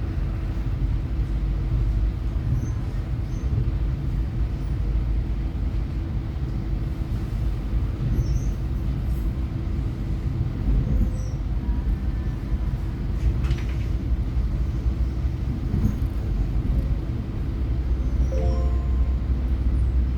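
Steady low rumble of a moving passenger train heard from inside the carriage, with a constant hum running through it. A few faint short tones appear shortly before the end.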